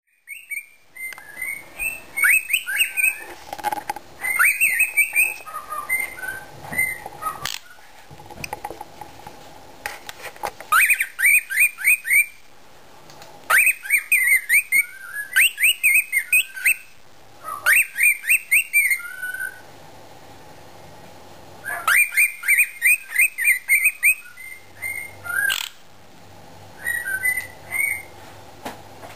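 Cockatiel whistling and chattering in bursts of quick rising-and-falling notes, phrase after phrase with short pauses between, over a faint steady hum.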